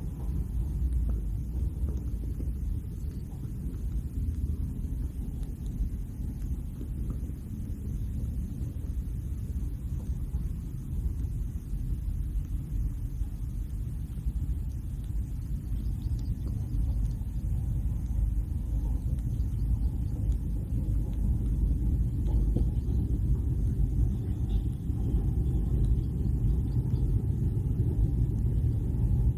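Steady low rumble without a clear pitch, growing a little louder over the last third.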